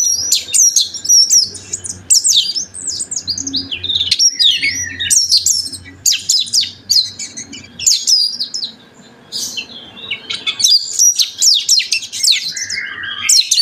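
Oriental magpie-robin singing hard: a fast, varied stream of whistled and chattering phrases, its song full of varied fills. The song breaks off briefly about two-thirds of the way through, then resumes.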